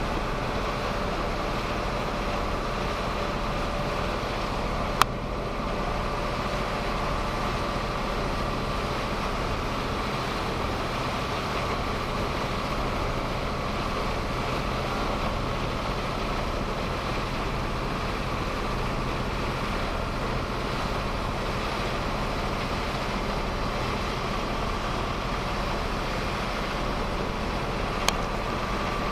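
Boat engine running steadily: a constant drone with a faint steady whine over it. A sharp click about five seconds in and another near the end.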